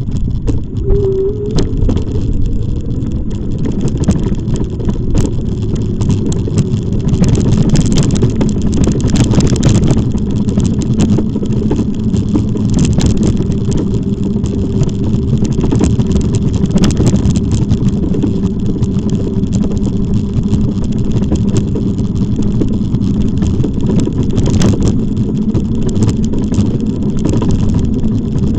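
Steady, loud wind and road noise on the camera while riding an e-bike, with a faint steady hum and scattered clicks.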